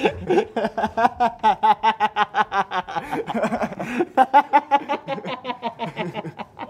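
Uncontrolled laughter in rapid ha-ha pulses, about four or five a second. It comes in two long fits with a brief break about three seconds in.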